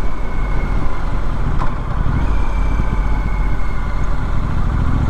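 A Triumph Street Scrambler's 900 cc parallel-twin engine running steadily while the bike is ridden along at a constant pace, with rushing wind noise over it.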